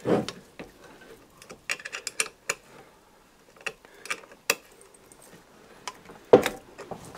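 Hand tools and small metal engine parts clicking and clinking during bench disassembly of a Simson S51 two-stroke engine. The ticks are scattered and irregular, and a louder knock comes near the end.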